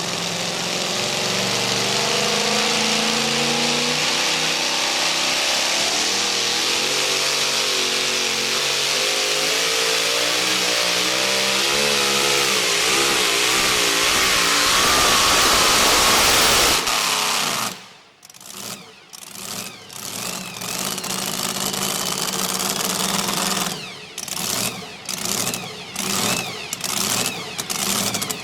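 A modified two-wheel-drive pulling truck's engine running wide open under load, its pitch wavering up and down, then cutting off abruptly about 17 seconds in. After that an engine is heard in short broken revs that rise in pitch near the end.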